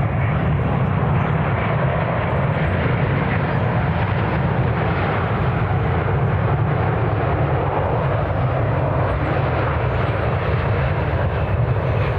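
Jet airliner engines running loud and steady: a deep rumble under a broad, even rush of noise that holds level throughout.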